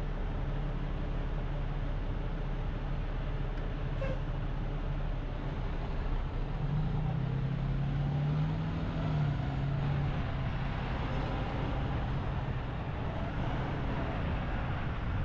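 Car engine idling at a red light, then accelerating about halfway through as the car pulls away from the stop, with a steady traffic hum around it.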